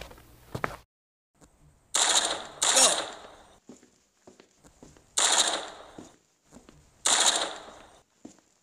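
Gunshot sound effects: four single shots, two close together about two seconds in, then one at about five seconds and one at about seven, each dying away over about a second.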